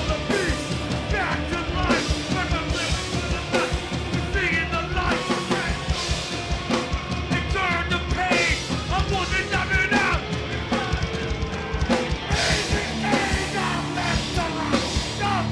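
Live punk rock band playing loud and fast, with drum kit and yelled vocals over the full band.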